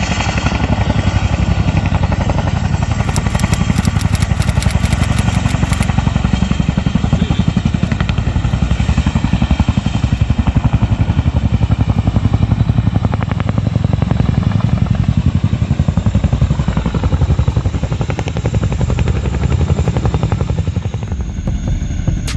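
Helicopter running close by, its rotor beating in a fast steady rhythm over a loud rushing noise that eases slightly near the end.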